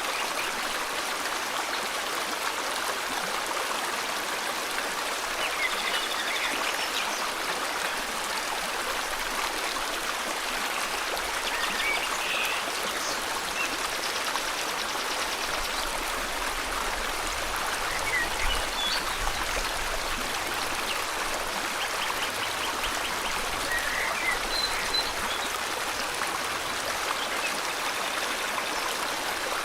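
A river flowing steadily, with faint birds chirping now and then over the water.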